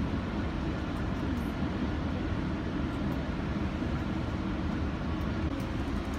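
Steady low rumble of a commuter train running, heard from inside a passenger car.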